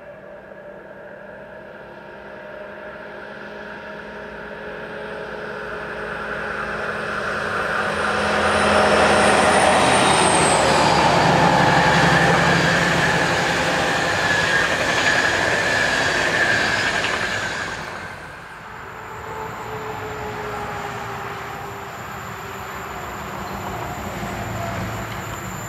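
DB class 218 diesel locomotive hauling a passenger train, its engine growing louder as it approaches, then the coaches rumbling past with a brief high wheel squeal on the curve. About eighteen seconds in the sound cuts to a quieter, distant train with steady high insect chirping.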